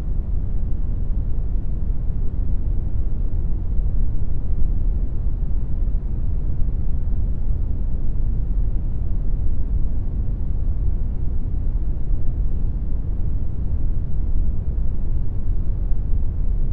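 Steady brown noise, a deep, even rumbling hiss with most of its weight in the bass and little treble, generated digitally.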